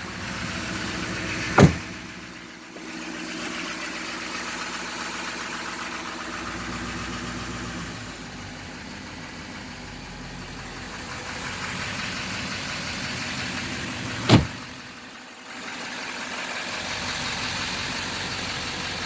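Duramax 6.6-litre V8 turbo-diesel engine of a 2014 Chevy 2500 pickup idling steadily. Two sharp knocks stand out, one near the start and one about two-thirds of the way through.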